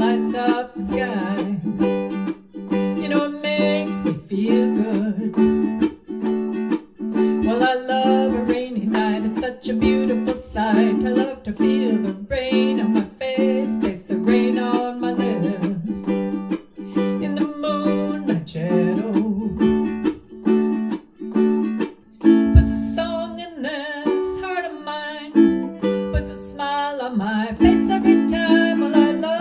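Tenor KoAloha ukulele strummed in a steady rhythm, with a voice singing along in a small room.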